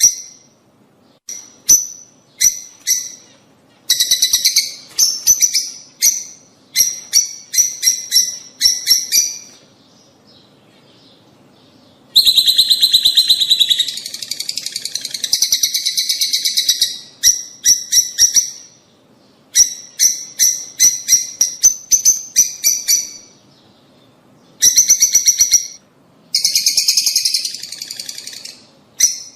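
Lovebirds chattering: rapid strings of shrill chirps in short bursts, with a long unbroken stretch of chatter around the middle and a brief pause before it.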